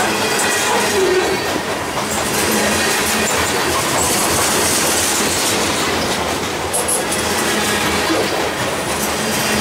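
Freight cars, loaded covered hoppers, rolling past close by: steel wheels running on the rails with a steady, unbroken noise.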